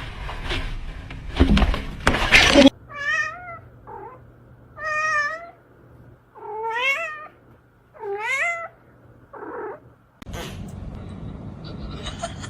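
A cat meowing: four drawn-out meows about two seconds apart, some rising and then falling in pitch, with two shorter, fainter ones between them. Loud knocks and rustling come first, in the opening two to three seconds.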